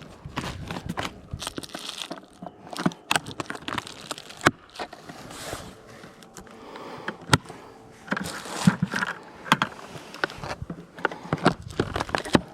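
Irregular clicks, knocks and short scrapes of beehive frames and hive parts being handled, with a few sharper knocks standing out.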